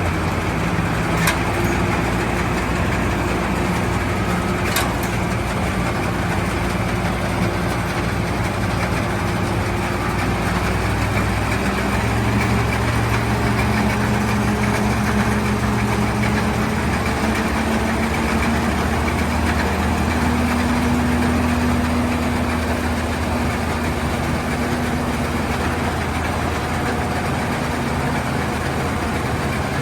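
Case IH Axial-Flow combine's diesel engine running steadily, its pitch shifting slightly a few times. Two sharp clicks come in the first five seconds.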